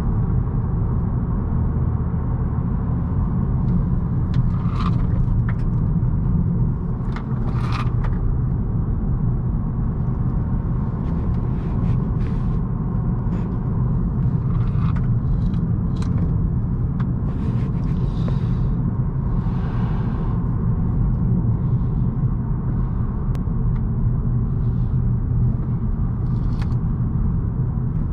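A 2018 Honda Accord's 1.5-litre turbocharged four-cylinder and its tyres and road noise while being driven hard on a winding road: a steady low rumble. Scattered light clicks and rattles sound over it.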